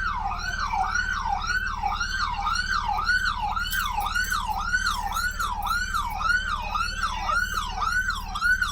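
Police car siren in fast yelp mode, wailing up and down a little over twice a second without a break, over a steady low hum.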